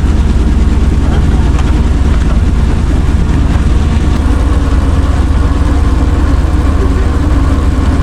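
Chevrolet C60 truck's engine running steadily, a loud low rumble with a fast, even pulse.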